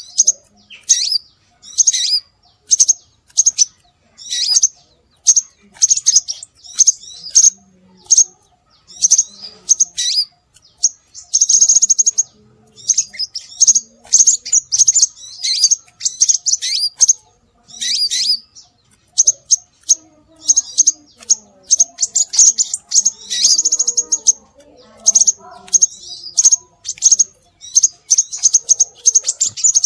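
Scarlet minivet calls: quick series of high, sharp chirps in close bursts with short gaps, some running together into rapid trills.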